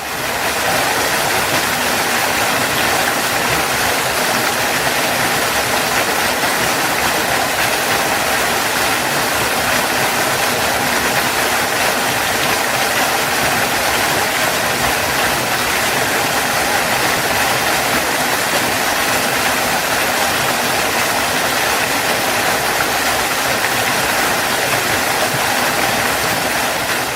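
Waterfall, water falling and splashing in a steady, even rush; it fades in at the start and fades out at the end.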